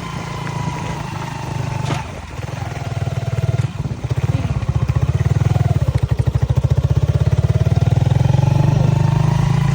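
Rice harvester engine running. Its pitch falls over the first few seconds and rises again near the end, and a rapid pulsing sets in about halfway through. A single sharp click comes about two seconds in.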